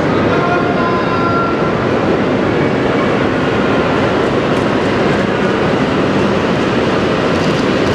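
JR Hokkaido H5 series Shinkansen train pulling into the station, its cars rolling past the platform with a steady, loud running noise of wheels on rail, with a faint high whine in the first couple of seconds.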